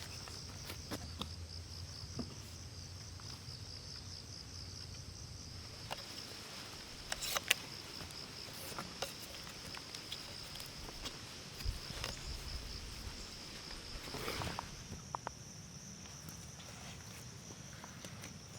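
Insects, likely crickets, trilling in a steady high-pitched drone, with scattered light clicks and knocks of movement; a sharper knock about seven seconds in and another about fourteen seconds in.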